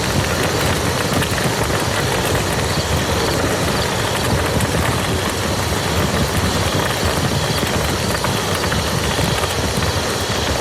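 Steady rain falling on a muddy field, a dense, even patter of drops.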